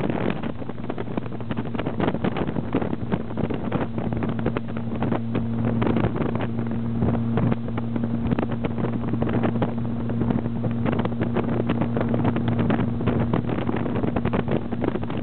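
Strong wind buffeting the microphone with a crackling rush, over a steady low mechanical hum that comes in about half a second in.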